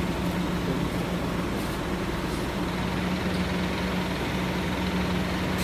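An engine running steadily at a constant speed, with an even hum and no revving.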